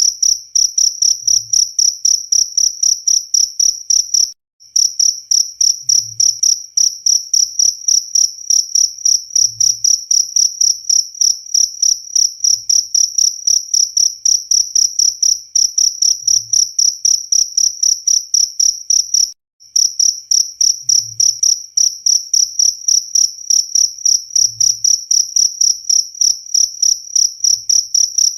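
Cricket chirping steadily and loudly, a fast even train of high-pitched chirps, about three a second. It cuts out briefly twice.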